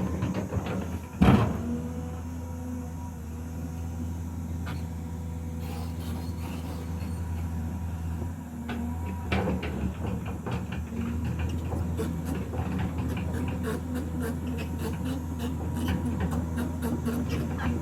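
Diesel engine of heavy machinery running steadily, with a loud knock about a second in and scattered clicks and knocks of logs being handled.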